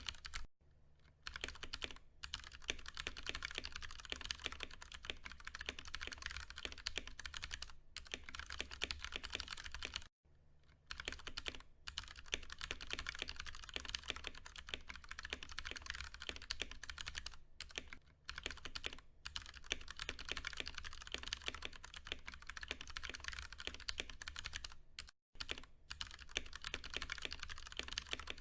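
Continuous fast typing on a Ducky One 2 Mini mechanical keyboard with Cherry MX Brown tactile switches, a dense run of keystroke clacks broken by a few brief pauses.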